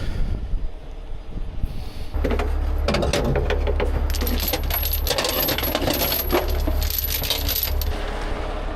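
Metal recovery rigging, chains and hardware, clinking and rattling in a dense run from about two seconds in until near the end, over a steady low rumble.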